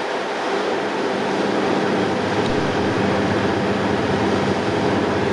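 The diesel engines of a KiHa 183 railcar set running steadily, a constant hum with a rumbling noise over it.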